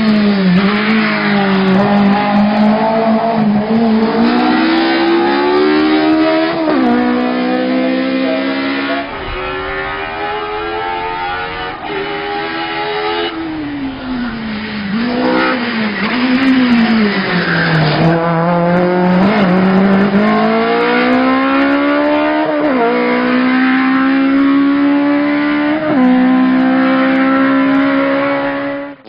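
Zakspeed Ford Escort Mk2 race car engine being driven hard: the engine note climbs through the revs and drops sharply at each gear change, several times over. In the middle the revs fall and wobble up and down, as when braking and downshifting for a corner, before climbing again.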